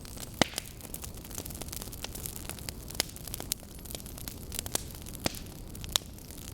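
Burning logs crackling: a steady stream of small snaps over a low rushing noise of the flames, with a few sharper pops, the loudest about half a second in.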